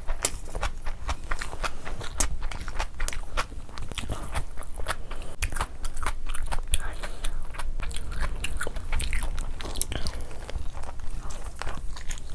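Close-miked wet chewing and lip-smacking of a mouthful of rice and mutton liver curry, with many quick, irregular smacks.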